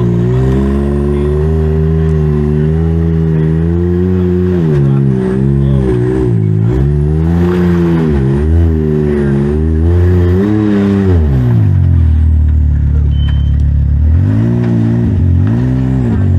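Side-by-side UTV engine being driven over a trail, revving up and down repeatedly as the throttle comes on and off. It settles to a steadier, lower run about twelve seconds in, then gives a few quick revs near the end.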